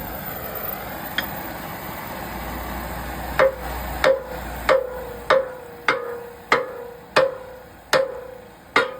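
A run of about nine sharp strikes, evenly spaced at roughly one and a half a second, starting a few seconds in. Each strike is followed by a short ring at one pitch that fades quickly, like blows on a resonant object.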